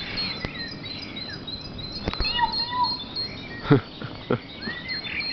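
Dawn chorus of many songbirds: overlapping chirps and short falling whistles from several birds at once. A few sharp knocks or clicks cut through, the loudest about two-thirds of the way in.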